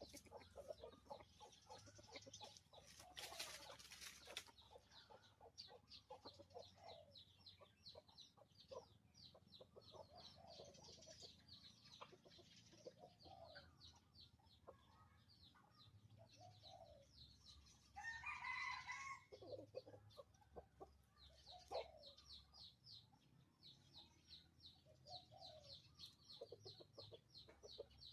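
A rooster clucking softly on and off and crowing once, about eighteen seconds in. Trains of fine high ticking run faintly underneath.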